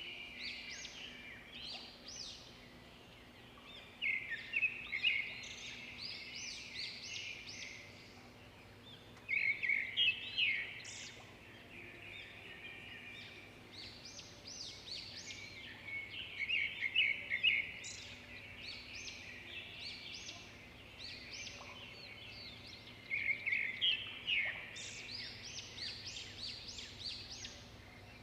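Songbirds chirping and twittering, with dense overlapping calls that swell into busy bursts every few seconds and ease off in between.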